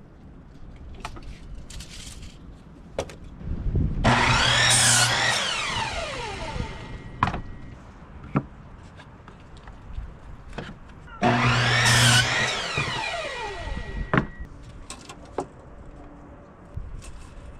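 Electric saw cutting wood twice, about seven seconds apart; each time the motor's whine falls in pitch as the blade winds down. Scattered knocks of wood between the cuts.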